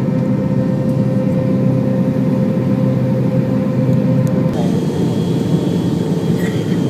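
Jet airliner cabin noise inside a McDonnell Douglas MD-80: steady engine and airflow noise with a constant hum. The sound changes abruptly about four and a half seconds in, the hum shifting.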